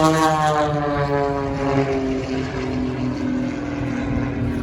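Propeller-driven aircraft flying past with its engine running; the engine's pitch falls steadily as it passes.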